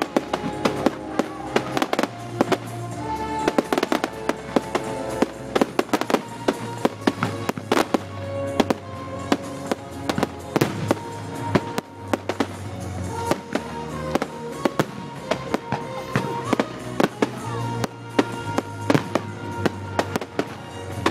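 Fireworks going off in rapid, irregular bangs and crackles over continuous music.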